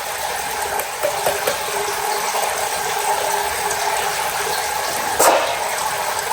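Hotsy pressure washer running with water spraying out of its working pump: a steady hiss over a mechanical rattle, with one sharper knock about five seconds in.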